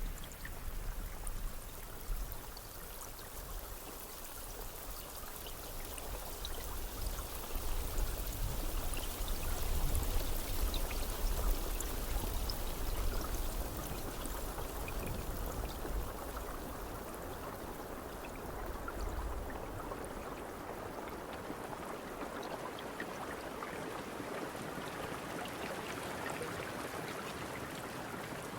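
Steady rain falling, with scattered single drops ticking through it. It swells for a few seconds about a third of the way in, and a low rumble underneath fades out a little past halfway.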